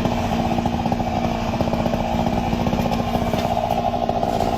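Chainsaw engine running at one steady pitch with a fast, even rattle.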